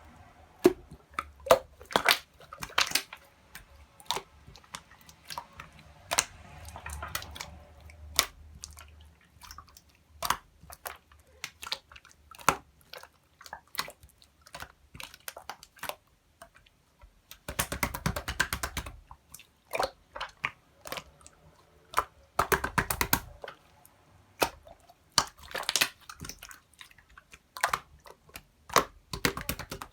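Clear slime being squished, poked and stretched by hand, giving short wet clicks and pops in irregular clusters, with two denser runs of crackling in the second half.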